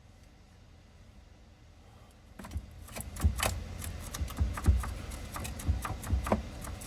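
Irregular clicks and knocks of hand tools and metal parts being handled, starting a couple of seconds in after a quiet stretch.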